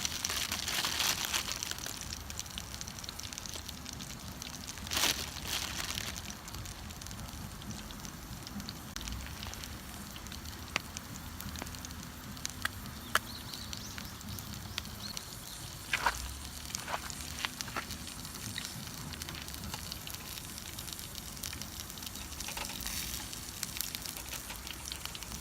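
Wood fire crackling steadily, with scattered sharp pops and snaps.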